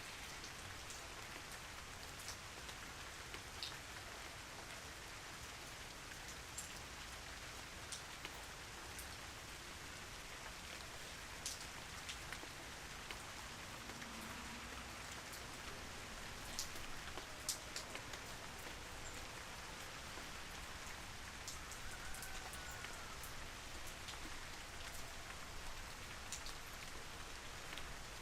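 Steady, gentle rain falling, with scattered separate drops ticking sharply on a hard surface now and then.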